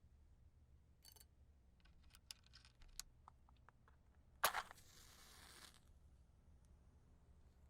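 A wooden match struck about four and a half seconds in, a sharp scrape followed by about a second of hissing as it flares. A few light ticks come before it.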